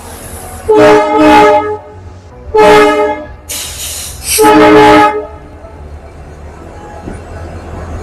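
A locomotive's air horn sounding three blasts, the first the longest, each a chord of several steady tones, as the train approaches the station over a steady low rumble.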